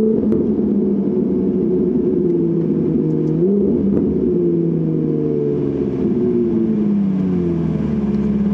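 Ferrari 458 Italia's V8 through a Kreissieg cat-back valvetronic exhaust, driven on the street. The engine note rises briefly at the start and again a few seconds in, then falls slowly in pitch as the car slows. The sound cuts off suddenly at the end.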